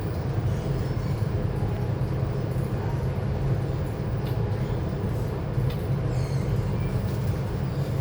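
Interior of a VAL208 rubber-tyred automated metro car running between stations: a steady low rumble of the tyres and running gear. The uploader describes this car's motor as slightly faulty.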